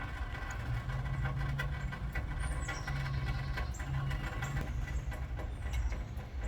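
Hummingbird wings humming as they hover, the hum coming and going, with a few short, high, falling chirps. A steady low rumble runs underneath.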